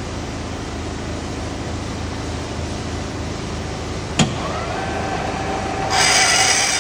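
Metal lathe running steadily, with one sharp click about four seconds in, then a faint whine and, near the end, a louder hissing scrape.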